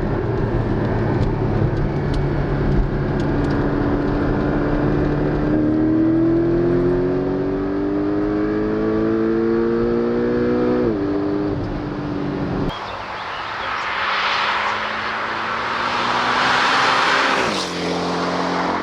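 Porsche 718 Cayman GTS's turbocharged flat-four running steadily, then accelerating with a climbing pitch that drops sharply at an upshift about eleven seconds in. After that comes a rushing hiss as it pulls again, and the pitch drops once more near the end.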